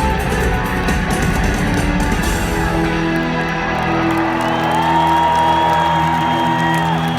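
Live rock band with electric guitars playing loudly in an arena. About two and a half seconds in, the dense playing gives way to held notes ringing out, with a long high steady tone over them, as the song closes.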